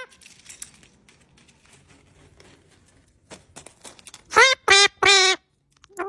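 Pet parrot giving three short, harsh, wavering squawks in quick succession about four seconds in, after a few seconds of faint clicks and rustles.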